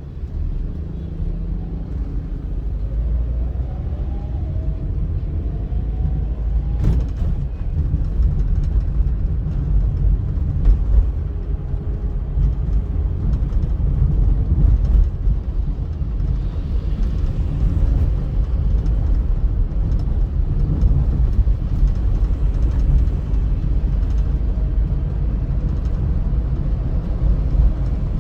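Car driving on a highway: steady low rumble of engine and road noise. A faint rising whine comes a few seconds in, and a single sharp click follows soon after.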